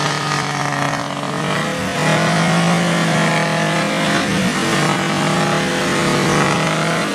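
Suzuki Jimny 4x4 engine running under load as it tows a pickup stuck in mud, its revs rising about two seconds in and then holding steady.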